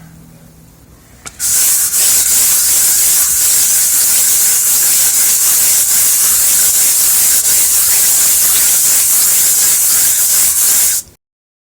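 Steel mincer plate being rubbed face down on wet 150-grit sandpaper for lapping, a steady loud hiss that starts about a second in and cuts off suddenly near the end.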